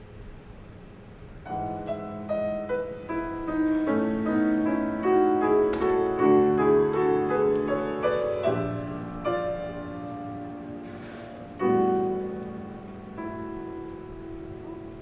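Piano playing a slow passage of held chords, starting about a second and a half in, with a strong new chord near the twelve-second mark.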